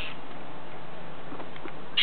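Short, sharp bird calls, one right at the start and another at the end, from a bird mobbing a cat, over a steady background hiss.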